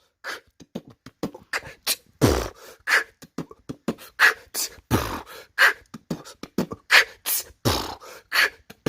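Beatboxing: a voice making rapid mouth-percussion clicks, pops and hissing hi-hat sounds, with a deep kick-drum sound about every two and a half seconds.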